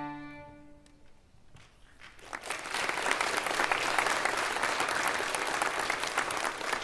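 The last held note of a string piece fades out, and after a short quiet the audience applauds, starting about two seconds in.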